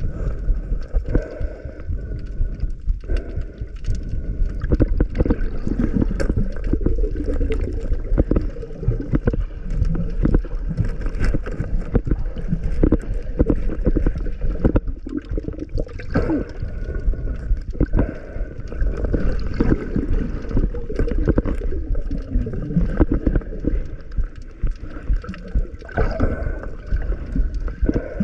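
Muffled underwater water movement and bubbling, heard through a waterproof camera housing, with many small clicks and knocks throughout.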